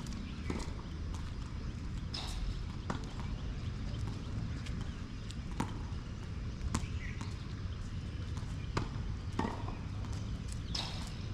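Sharp knocks of tennis balls being struck and bouncing on a court, irregular, about one every second or two, over a steady low background noise.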